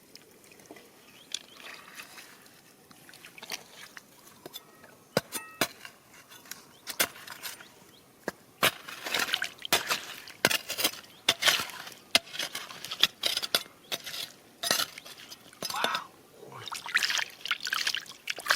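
Water splashing and sloshing in short repeated surges, with sharp clicks of small stones knocking together. It starts with scattered clicks and grows busier about halfway through.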